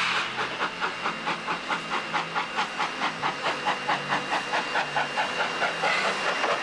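Steam locomotive exhaust chuffing in quick, even beats, about four to five a second, with steam hiss; near the end the beats blur into a steady hiss.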